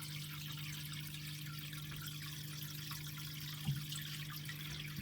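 Water trickling and dripping over a steady low hum, with a small knock about three and a half seconds in.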